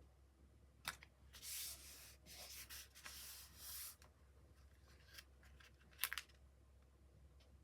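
Paper and card being handled: a tap about a second in, then a few seconds of papery rubbing and sliding, and a couple of sharp clicks about six seconds in.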